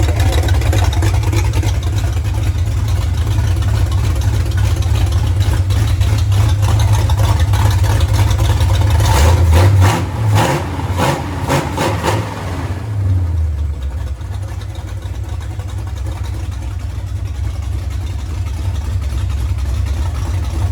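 1981 Dodge D150 pickup's V8 engine running with a strong low exhaust note, revved in several quick blips about nine to twelve seconds in, then settling back to a steady idle.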